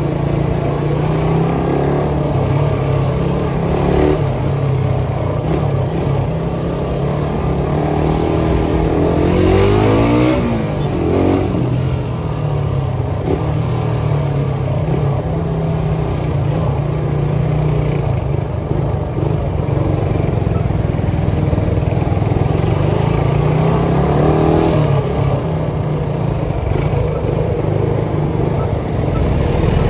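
Suzuki Satria FU 150's single-cylinder four-stroke engine running steadily through its exhaust, with the revs rising and falling about nine to eleven seconds in and again briefly near twenty-four seconds.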